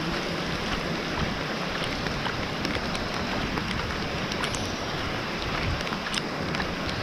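Steady rain falling, with many small scattered drop hits, and wind rumbling on the microphone.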